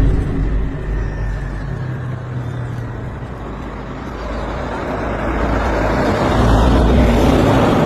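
Street traffic: a road vehicle's engine running under a wash of traffic noise, growing louder from about four seconds in and peaking around six to seven seconds as a vehicle passes close.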